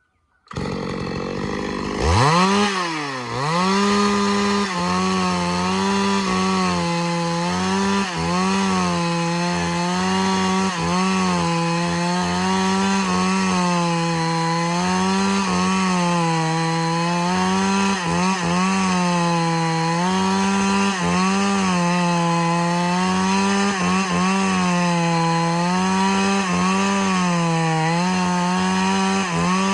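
Two-stroke chainsaw revving up about two seconds in, dipping once, then running at full throttle while cutting through a large log. Its engine note sags and recovers every second or two as the chain bites into the wood.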